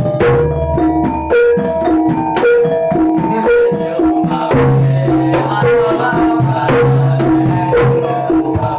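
Javanese gamelan music for jaranan: sharp hand-drum strokes over a repeating, interlocking pattern of tuned metal notes, with held low gong tones every few seconds.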